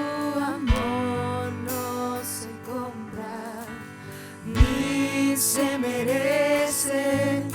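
Slow Christian worship music: a singing voice in two drawn-out phrases over a sustained accompaniment, with a brief lull between them.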